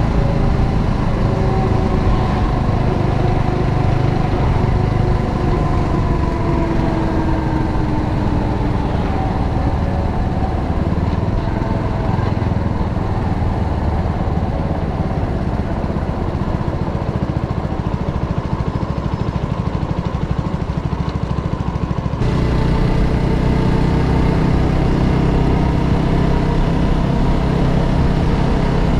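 Motorcycle engine running on the move, its pitch rising and falling with the throttle in the first several seconds. The sound changes abruptly about twenty seconds in, to a lower, steadier engine note.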